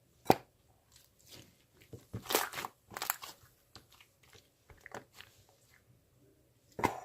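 Close-up crunching in short bursts: a sharp snap just after the start, a dense run of crunches around two to three seconds in, scattered small crackles, and another loud crunch near the end.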